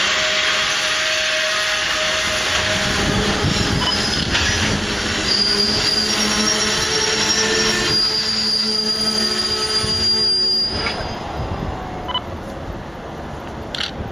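Freight train rolling past, its wheels rumbling on the rails, with a high wheel squeal from about five seconds in. The noise drops off suddenly about eleven seconds in as the train passes.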